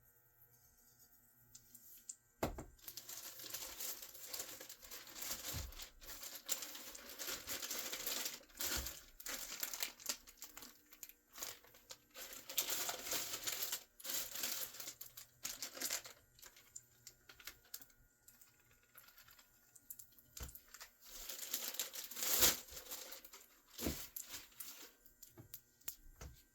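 Packaging crinkling and tearing as it is handled, in irregular stretches of rustling with a few sharp knocks.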